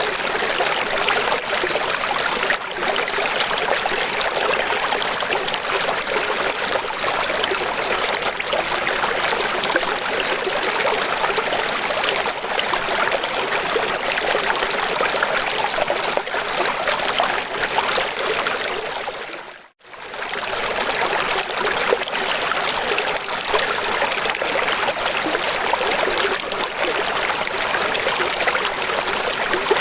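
Steady rush of running water, with little low rumble. It fades out to silence and straight back in about two-thirds of the way through.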